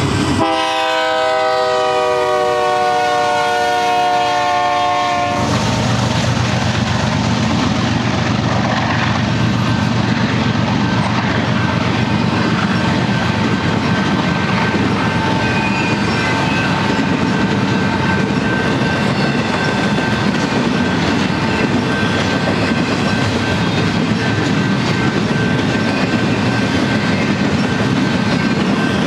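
A BNSF freight train's multi-note air horn blows for about five seconds, its chord sinking slightly in pitch, and then cuts off. After that the long double-stack intermodal train runs steadily past, its wheels clattering over the rail joints.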